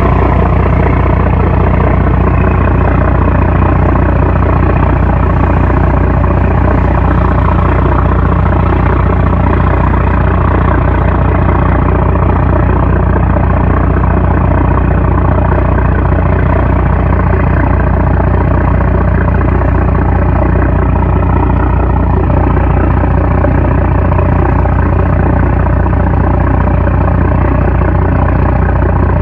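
A 750-horsepower trawler's diesel engine running steadily and loud, with a heavy low drone and a constant mechanical hum.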